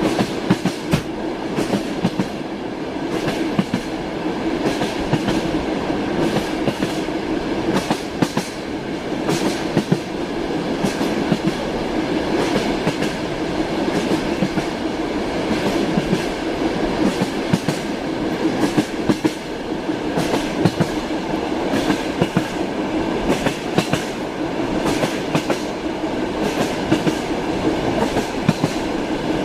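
Wheels of a moving passenger train clacking over rail joints, heard from inside a compartment carriage, with many short clacks over a steady drone of the rolling carriage.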